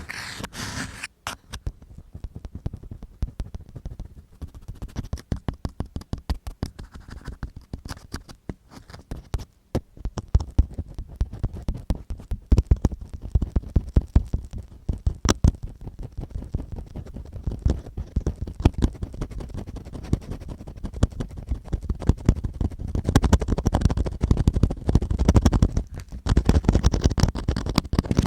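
ASMR ear cleaning on the microphone: an ear-cleaning tool scratching and scraping close to the mic, with dense irregular clicks and a low rumble, getting busier and louder near the end.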